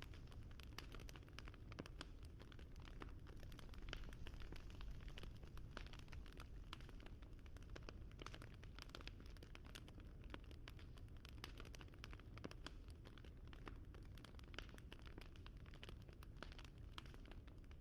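Faint crackling fire: dense, irregular pops and snaps over a steady low rumble.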